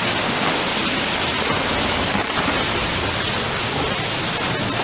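Loud, steady rush of floodwater, an even roar of flowing water.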